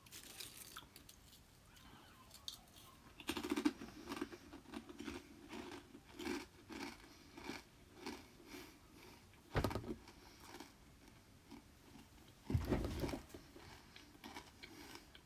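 Intermittent crunching and scraping of soil and grit being cleared up, with a few louder scrapes.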